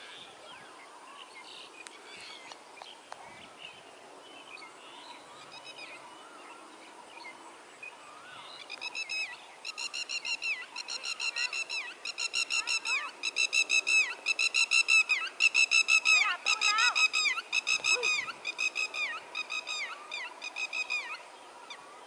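A bird calling loudly in a long, rapid run of repeated notes that starts about a third of the way in, grows louder, then tails off near the end. Fainter bird chirps come before it.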